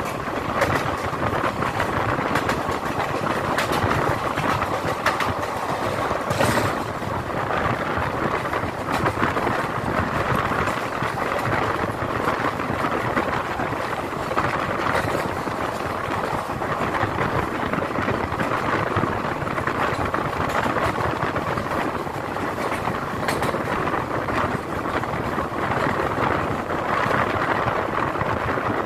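Steady running noise of an Indian Railways passenger train in motion, heard from a coach window: wheels on rails and rushing air, with a few sharp clicks.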